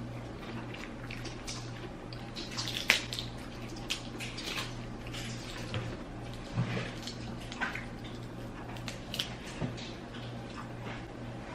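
Close-up eating sounds from a seafood mukbang: wet chewing and lip smacking, with irregular small clicks and a sharp crack about three seconds in. A steady low hum runs underneath.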